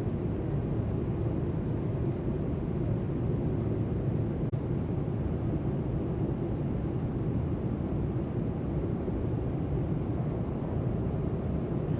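Steady low cabin drone of a Boeing 787-9 airliner, an even rushing noise with no change in level.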